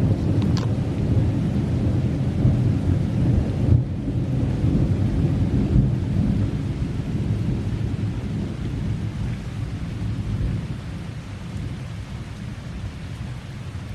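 Rolling thunder rumbling, loudest in the first few seconds and slowly dying away, over steady rain.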